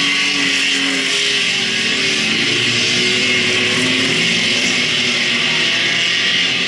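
Race car engines running together with rock guitar music.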